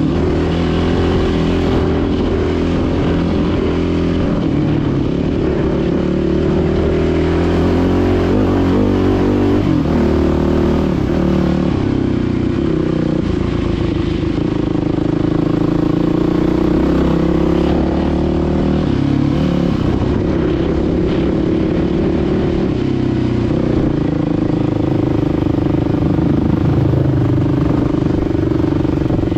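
Dirt bike engine running while riding, its pitch rising and falling several times with throttle changes, over a steady rushing noise.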